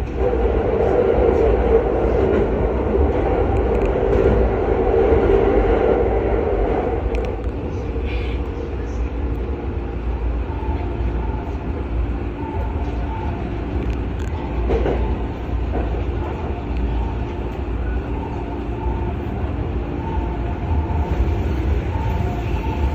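Commuter electric train running along the track: a steady rumble with a humming tone from the drive, louder for the first few seconds and then settling.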